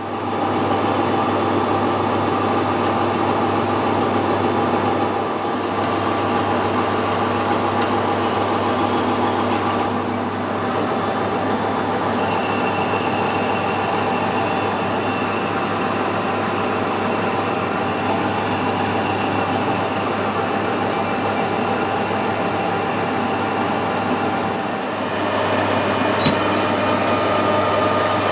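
A workshop machine tool runs steadily while a hole is machined through a plastic guide piece. It gives a constant hum with a few steady tones, and its pitch shifts slightly a few times.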